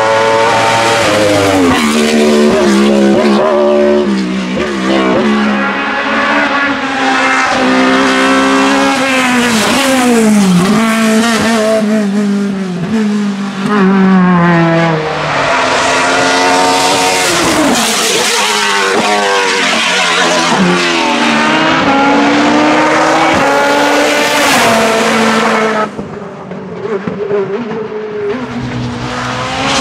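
Hillclimb race car engines at hard throttle, the engine note climbing steeply and dropping again over and over as the cars shift gears and brake for corners. The sound falls away briefly near the end, then another car's engine comes up.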